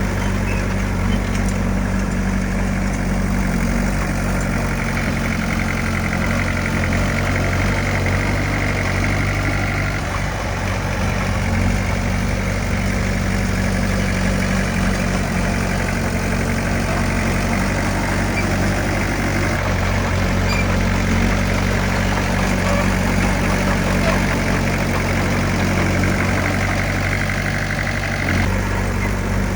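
Heavy earthmoving machine's diesel engine running steadily, with a rougher, noisier layer that grows stronger about a third of the way in and eases near the end.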